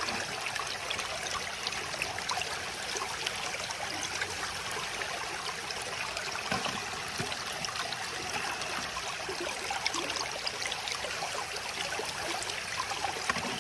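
Creek water running fast through an Angus MacKirk sluice box, a steady rush with a few faint small ticks.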